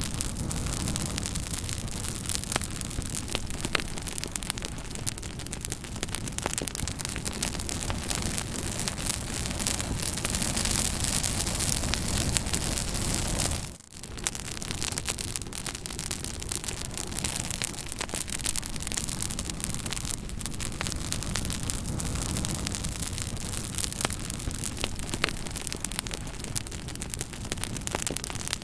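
Fire crackling: a steady rushing hiss with frequent small pops and snaps. The sound drops out for a moment about halfway through, then carries on.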